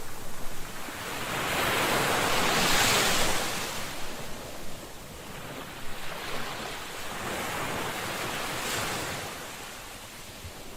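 Ocean surf: waves washing in on a shore, with two swells of rushing water a few seconds apart, the first the louder.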